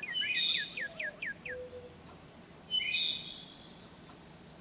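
Wild birds calling: a quick series of down-slurred chirping notes, about four a second, that stops after about a second and a half, and two louder, harsher calls, one at the start and one about three seconds in.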